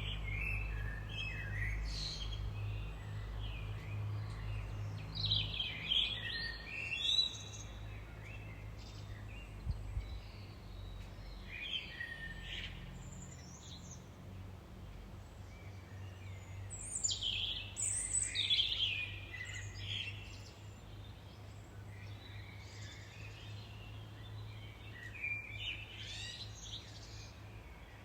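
Wild songbirds singing and chirping in short bursts of trills and warbles, with pauses between the phrases, over a steady low rumble of background noise.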